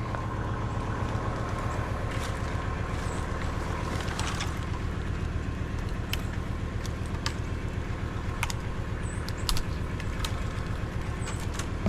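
LS MT573 tractor's diesel engine running steadily, with scattered sharp clicks and snaps over it.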